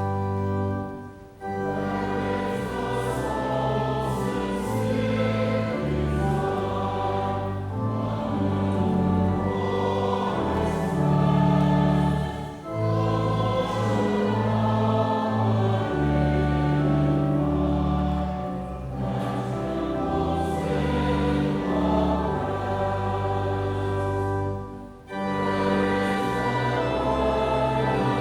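Church choir singing a hymn with organ accompaniment, in long held phrases with two brief breaks for breath.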